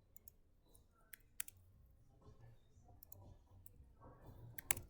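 A few scattered sharp clicks of a computer mouse, the loudest near the end, over a faint low room hum.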